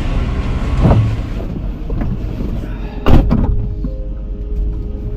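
Vehicle running with a low rumble, broken by a thump about a second in and a louder knock about three seconds in.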